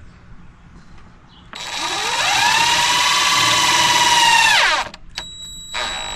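Power drill driving a screw: the motor whines up to speed about a second and a half in, runs steadily for about three seconds, then stops.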